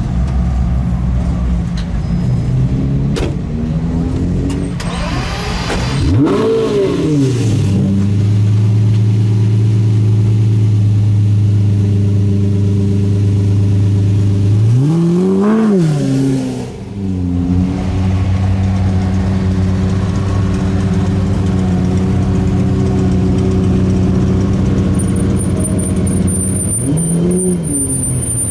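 A car engine idling steadily, blipped three times, each rev rising and falling back in about a second: once about six seconds in, once halfway through and once near the end.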